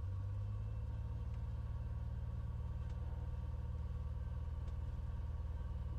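The six-cylinder engine of a 1968 Cessna 182L Skylane (an O-470 with the PPONK XP470 conversion) running at low taxi power with the mixture leaned. It is a steady low drone heard inside the cabin.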